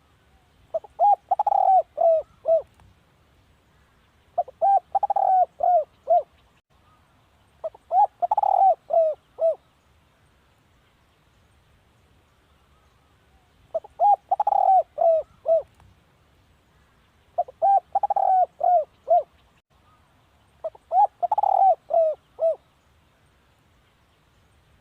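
Spotted dove cooing: six phrases of several quick coo notes each, repeating every three to four seconds, with a longer pause in the middle.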